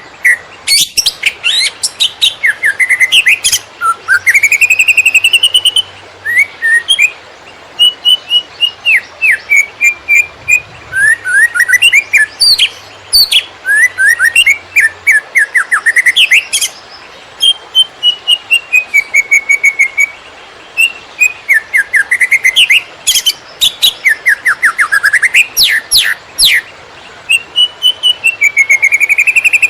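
Cucak ijo (green leafbird) singing continuously in the fast, stuttering 'konslet' style: rapid runs of chirps mixed with clear whistled notes that slide up and down in pitch.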